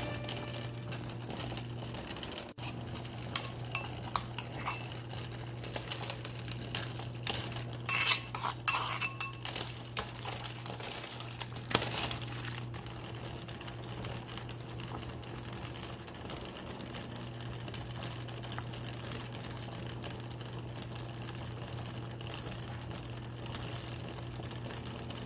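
Dishes, cutlery and cookware clinking in a kitchen: scattered sharp clinks, in a cluster about three to five seconds in, a busier run around eight to nine seconds, and one more near twelve seconds. A steady low hum sits under them.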